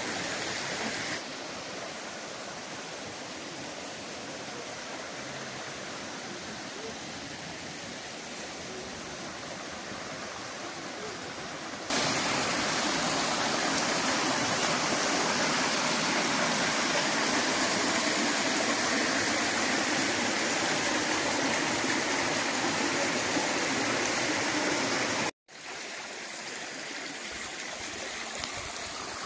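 Steady rush of water from a mountain stream's waterfalls. It drops a little about a second in, jumps markedly louder about twelve seconds in, and after a brief gap of silence near the end comes back quieter.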